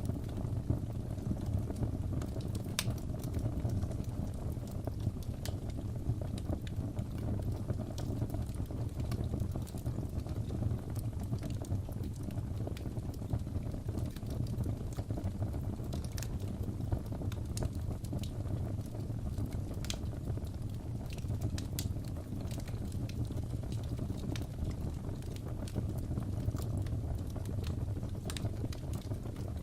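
Crackling wood fire: a steady low rush from the burning, with scattered sharp pops and crackles every second or so.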